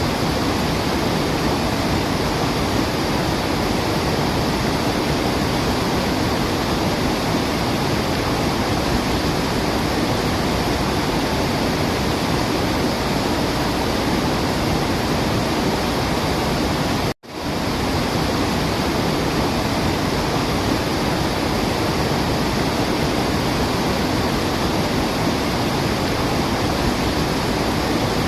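Steady, dense rush of falling water, with no birds heard. It cuts out for an instant about seventeen seconds in and resumes at once, like a loop being joined.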